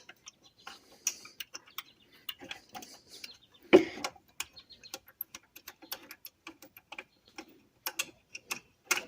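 Irregular light metallic clicks and ticks of a wrench working an adjuster bolt out, with one louder knock about four seconds in.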